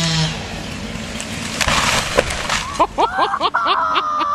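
A chainsaw stops just after the start. About a second and a half in, a felled tree crashes down with wood splintering and breaking. Near the end, people shout.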